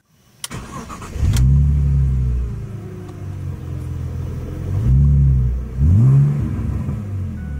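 A BMW 3 Series (E46) car engine. It cranks and catches about a second and a half in, then idles, with two quick throttle blips that rise and fall at about five and six seconds.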